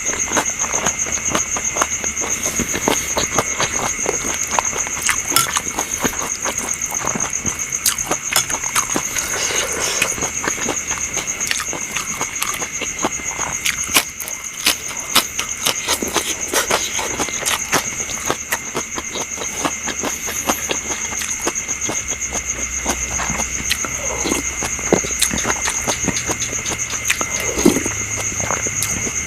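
Steady high-pitched drone of night insects, with frequent short clicks and smacks of someone chewing and eating close to the microphone.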